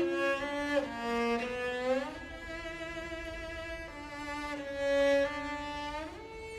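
Chamber string orchestra with cello playing a slow melodic line of long held notes with vibrato. It slides up into new notes about two seconds in and again near the end.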